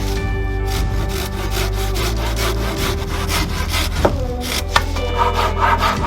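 Hand saw cutting through wood in quick, even back-and-forth strokes, over background music.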